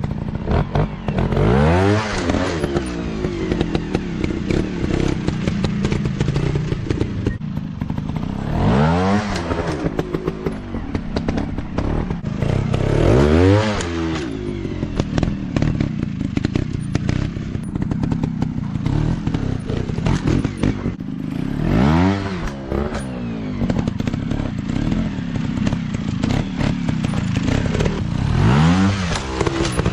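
Off-road dirt bike engines running under load, revving up and dropping back about five times, with clatter and knocks from the bikes working over rough ground.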